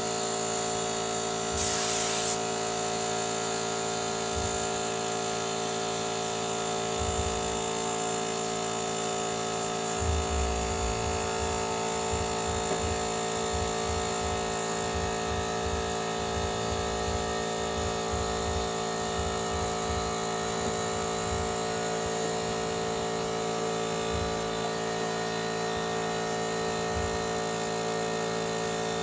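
Motomil 24-litre air compressor running with a steady motor hum. A short loud hiss comes about two seconds in.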